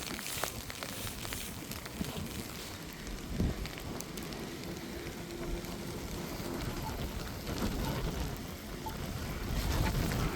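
Ice pellets and snow falling in a storm, ticking and pattering in a dense crackle over a steady hiss of wind. The sound swells briefly near the end.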